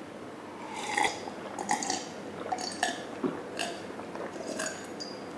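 Close-miked eating sounds: a string of short, wet chewing and smacking noises as a mouthful of sundae soup is chewed, coming every half second or so.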